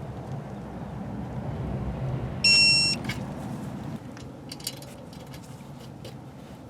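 A single high electronic beep, about half a second long, about two and a half seconds in, over a low steady rumble with a few faint clicks.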